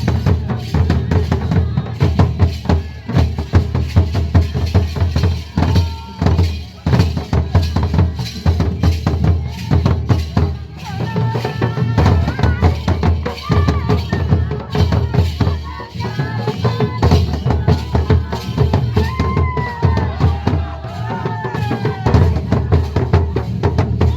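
Drums beating a fast, steady rhythm for Jhumar folk dancing, with a voice singing a wavering melody over them at times.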